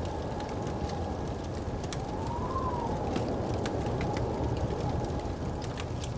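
Crackling fireplace over the steady rush of a snowstorm wind, with a faint whistling tone that rises and falls about two to three seconds in.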